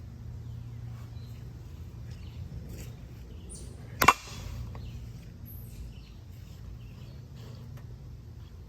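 Harbor Breeze Crosswinds ceiling fan running on high with a steady low hum. About four seconds in comes one sharp, loud whack with a short ringing tail, a baseball bat striking the spinning fan.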